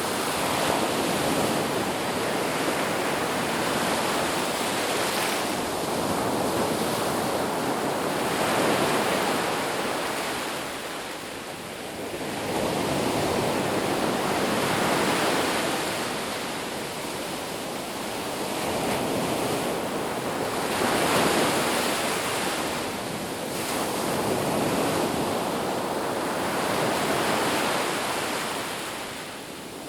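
Ocean surf: waves breaking and washing up on a beach in slow swells every few seconds, with some wind noise.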